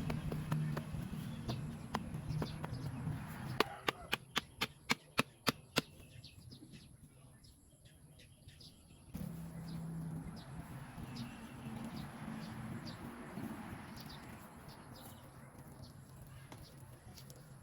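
A quick run of about eight sharp chopping strikes, roughly four a second, a few seconds in, with birds chirping throughout.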